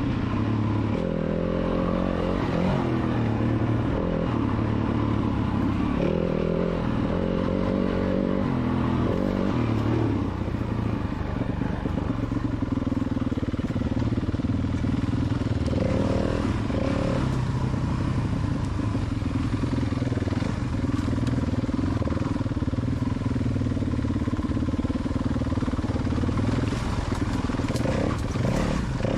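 Dirt bike engine running and revving up and down, its pitch rising and falling continually.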